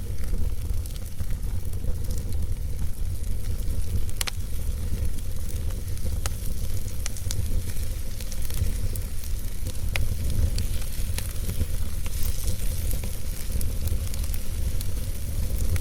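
Wood logs burning in a fireplace: a steady low rumble of the flames with scattered sharp crackles and pops, a few standing out at about four, six and ten seconds in.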